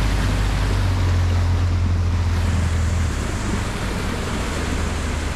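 Quad bike engine running steadily under way, with wind buffeting the microphone; the engine note drops about three seconds in.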